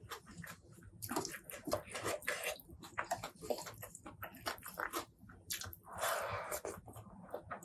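Close-miked eating sounds: wet chewing and lip smacks in quick irregular clicks, with a longer, louder noisy stretch about six seconds in.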